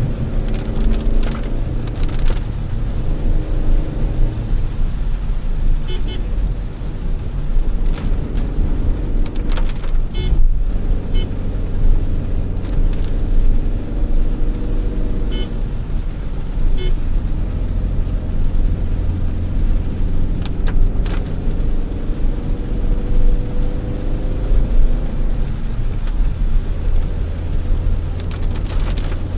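Honda Elevate's 1.5-litre four-cylinder petrol engine running under a constant low road rumble, heard from inside the cabin while driving. The engine note slides in pitch near the start and again near the end. There are scattered light clicks and a few short high beeps.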